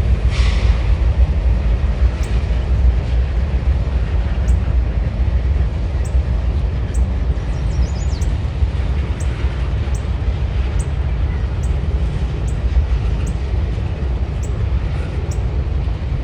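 Train rolling past with a heavy, steady low rumble and light, fairly regular clicking.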